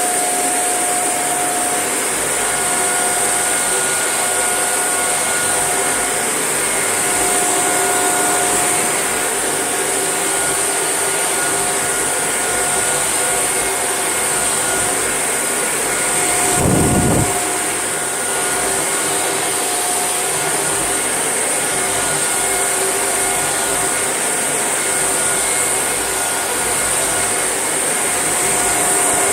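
Shark NV801UK upright vacuum cleaner running steadily, a constant airflow rush with a steady whine over it. A little past halfway there is a brief low rumble of under a second as the head bumps or draws something in.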